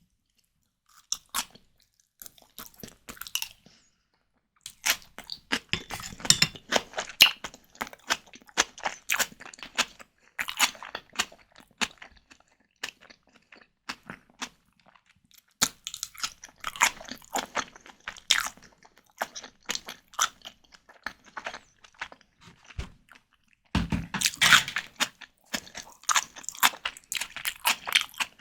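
Close-miked mouth sounds of someone eating white tiger prawn cocktail: crunching and wet chewing in runs of several seconds, broken by short pauses.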